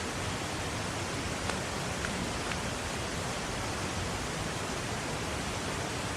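Waterfall water rushing in a steady, even wash of noise, with a few faint ticks.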